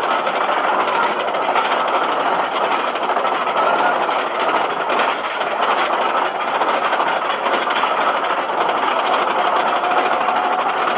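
Roller coaster train running along its track: a steady, loud rumble and rattle of wheels on rail.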